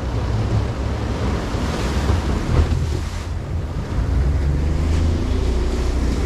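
Wind buffeting the microphone and water rushing past a panga, a small open boat, running under outboard power.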